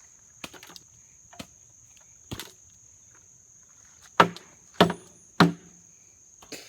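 A shovel chopping into wet, sticky dirt: a few light strikes, then three hard ones about half a second apart a little after four seconds in. A steady high insect trill runs underneath.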